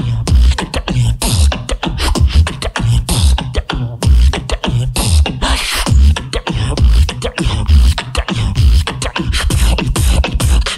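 A beatboxer performing solo into a microphone: deep bass kick sounds with sharp snare and hi-hat sounds made by mouth, in a steady, dense beat.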